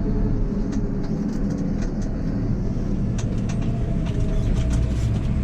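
Tractor engine running steadily on the road, a low even drone, with a scattering of light clicks and rattles.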